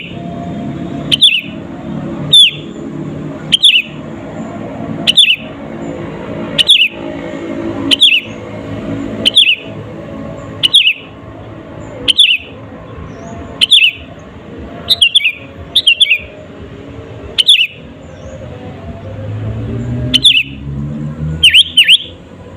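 Sooty-headed bulbul calling over and over: one short, loud, falling note every second or so, given twice in quick succession a few times, the last pair near the end. Under it lies a steady low hum.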